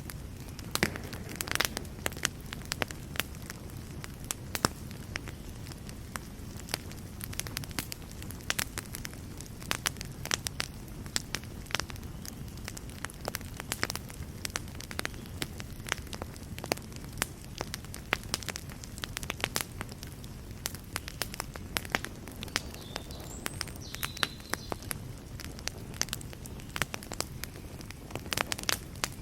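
Wood fire burning in a fireplace, with a steady low rumble and irregular sharp crackles and pops throughout.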